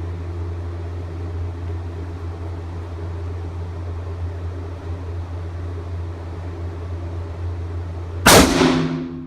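A single sharp, loud rifle shot from an M1917 Enfield in .30-06 about eight seconds in, ringing and echoing in a small room, over a steady low hum.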